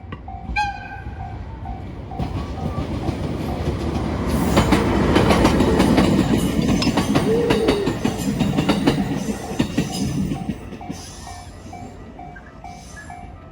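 Locomotive-hauled train carrying the FV-E991 test cars passes over a level crossing. Its wheel clatter over the rail joints builds to a peak in the middle, then fades. The crossing's warning bell dings steadily throughout, and a short high whistle sounds near the start.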